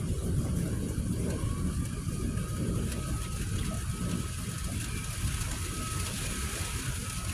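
Storm wind buffeting the microphone in a rough, churning rumble, over a steady hiss of heavy rain. A faint, thin, steady whine comes in about a second in and holds.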